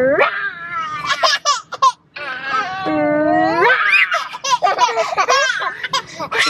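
One-year-old baby laughing and squealing in long, high-pitched, gliding cries.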